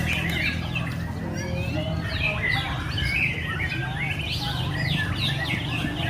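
Several white-rumped shamas (murai batu) singing at once: dense, overlapping whistles and chirps, with a low steady hum beneath.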